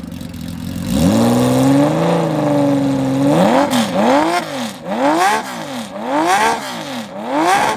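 Honda CBX inline six-cylinder motorcycle engine being revved through its exhaust: a held rev of about two seconds, then a string of about six quick throttle blips, each rising and falling in pitch.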